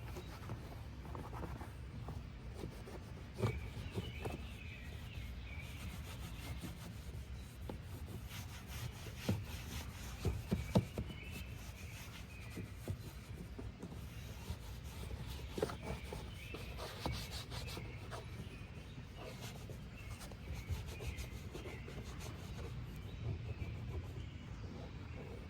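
Scrubbing and wiping on the car's interior surfaces, a steady rubbing with scattered clicks and knocks.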